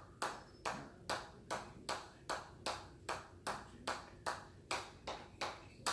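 Steady, even hammer blows, about two and a half a second, each a sharp strike with a short ringing tail.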